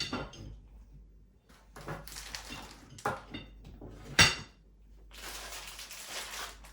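Metal parts of an IKEA FINTORP rail being handled, clinking and clattering: a few sharp metallic knocks, the loudest just after four seconds in, then a scraping rustle near the end.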